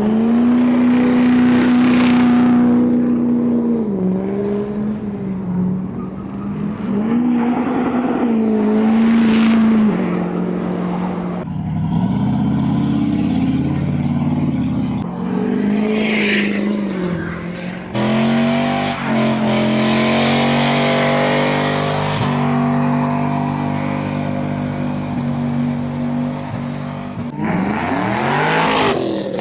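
Car engines revving hard and held at high revs, the pitch dipping and climbing back up several times. The sound changes abruptly twice, as another engine takes over.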